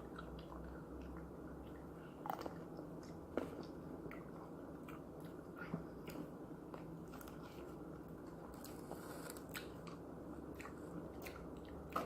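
Mouth sounds of someone biting into and chewing grapes: scattered crunches and wet clicks over a faint steady hum.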